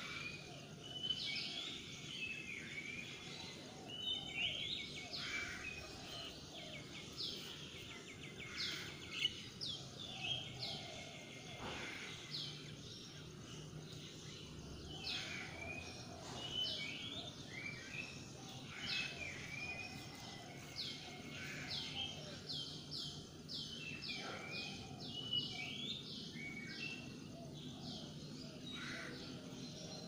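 Several birds chirping and calling over one another: a dense, continuous run of short, high, mostly falling chirps, with a faint low hum underneath.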